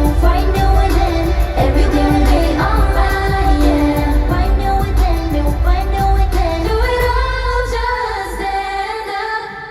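Pop song performed live: singing over a heavy bass beat. About eight seconds in the beat drops out, leaving held sung notes that fade away near the end.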